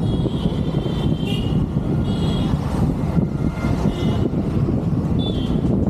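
Motorcycle riding in city traffic: a steady rumble of engine and wind on the microphone, with short high-pitched tones sounding several times over it.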